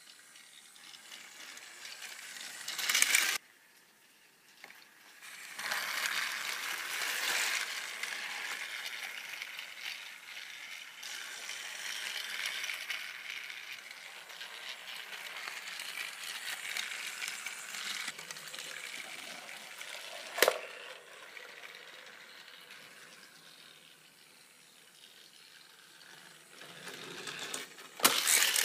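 Battery-powered TrackMaster Race Day Thomas toy engine running along plastic track: a steady whirring rattle of its small motor and gears that swells and fades as it moves. There is a loud clatter about three seconds in, a sharp click about twenty seconds in, and another clatter near the end.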